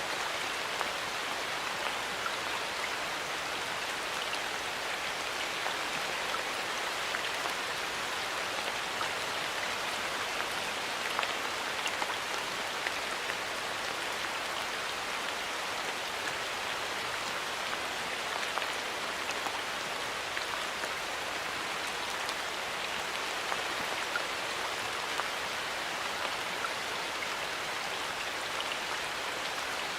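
Steady rain falling in a forest, a continuous even patter with many small scattered drop ticks.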